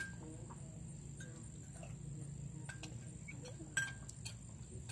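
Close-up chewing of a toasted grilled cheese sandwich, with a few short sharp crunches or clicks, the loudest near the end. A steady high-pitched whine runs underneath, over a low hum.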